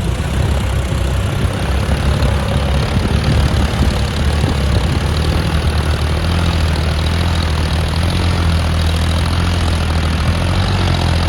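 John Deere 5042D tractor's three-cylinder diesel engine running steadily as the tractor drives, a deep even drone with no change in pace.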